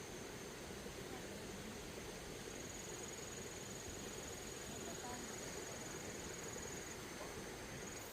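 Insect singing: a thin, steady, high-pitched drone over a low outdoor background hum. It stops about a second in, returns at about two and a half seconds, and stops again near seven seconds.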